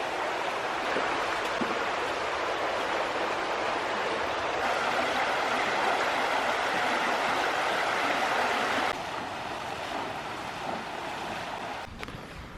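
Creek water running steadily as a continuous rushing noise. It grows louder a few seconds in, then drops suddenly about nine seconds in and again near the end.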